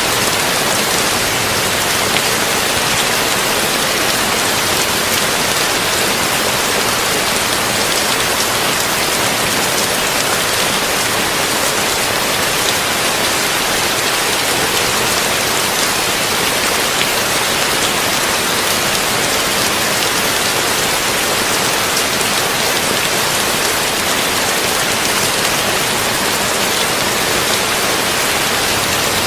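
Heavy rain falling steadily on a tin roof, a dense even hiss with individual drops pattering through it and no thunder.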